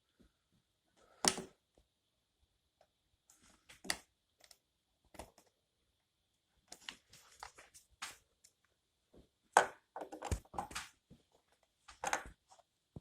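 Irregular clicks, taps and knocks of small parts and hand tools being handled during clockspring soldering work. The sharpest knock comes about a second in, and a busier run of clatter follows near ten seconds.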